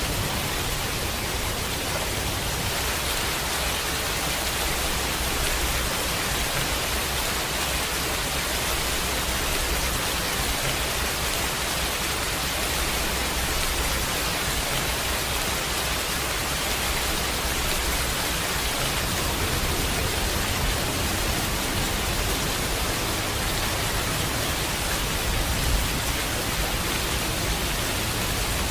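Heavy rain falling steadily, a dense even hiss, with a low rumble underneath that swells and eases.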